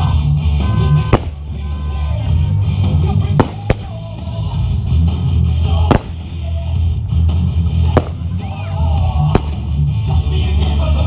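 Music with a heavy low beat, punctuated by about five sharp firework bangs a second or two apart.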